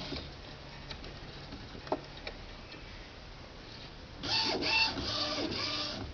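Epson CX3700 inkjet printer running its power-on initialization: a few light clicks, then about four seconds in its motors whir in several short runs as the mechanism moves.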